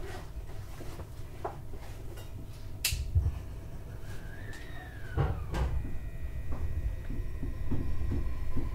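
Interior of an E531 series electric train car standing at a station: low cabin hum with scattered clicks and knocks and a brief tone that rises and falls about four seconds in. Near the end a steady whine from the traction equipment sets in as the train gets ready to pull away.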